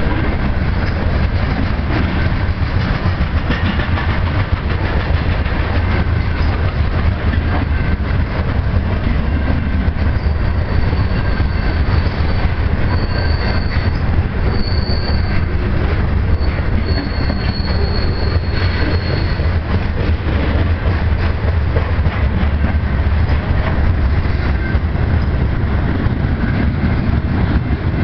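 Loaded freight cars of a mixed manifest train rolling past close by: a steady heavy rumble with wheels clicking over the rail joints. A high-pitched wheel squeal comes and goes from about ten to nineteen seconds in.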